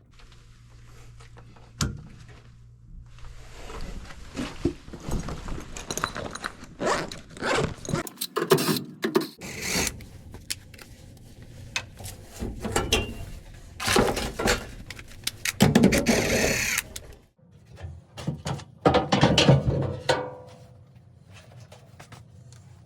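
Irregular metallic knocks, clatter and scraping of hands and tools working on a gas furnace cabinet, over a faint low hum.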